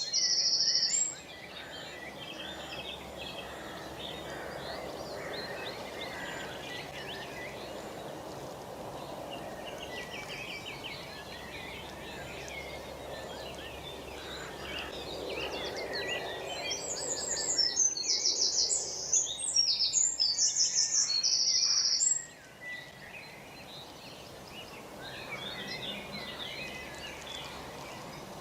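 Outdoor birdsong: scattered small-bird chirps over a steady background noise, with a loud, high, rapid trilling song from a nearby bird right at the start and again for several seconds past the middle.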